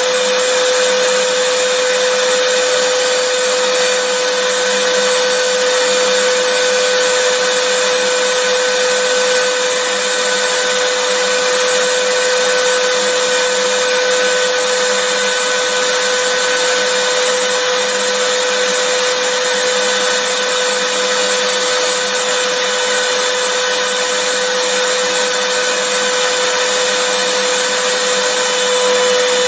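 Vacuum cleaner running continuously: a steady, unchanging motor whine with a strong hum and a dense rush of air.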